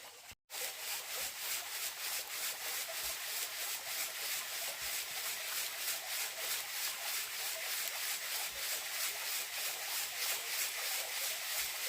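Rhythmic scraping strokes, steady and even at about three a second, after a short break about half a second in.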